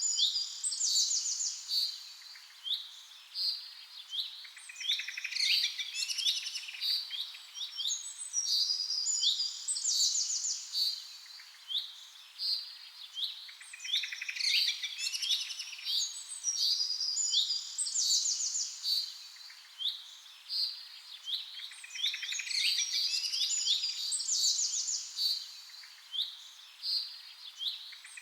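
Songbirds chirping and trilling, a mix of quick high chirps and fast trills. The same stretch of birdsong repeats about every nine seconds, a looped recording.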